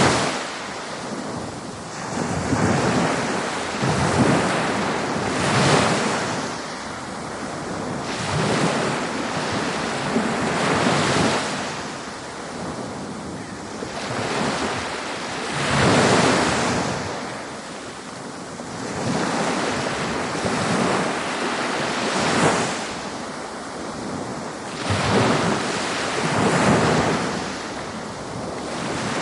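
Ocean waves breaking on a beach, each surge of surf swelling and washing out every few seconds over a continuous hiss of water, with some wind noise on the microphone.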